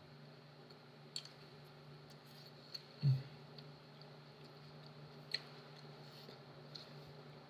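Quiet eating noises: a few light clicks and one soft low thump about three seconds in, over a steady low hum.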